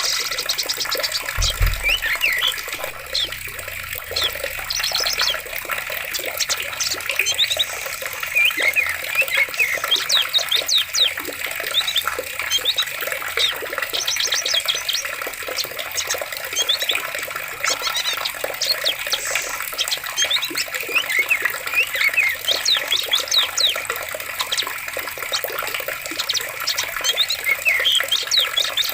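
Steadily running water with many birds chirping and trilling over it throughout. A brief low thump about a second and a half in.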